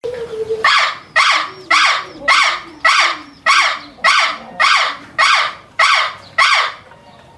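An animal calling loudly in a steady series: eleven evenly spaced calls, a little under two a second, that stop about six and a half seconds in.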